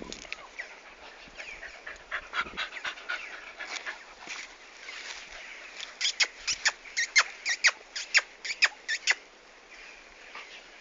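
Dogs whining and crying, then a quick run of about a dozen short, high-pitched yelps a little past the middle, about four a second, before it goes quieter.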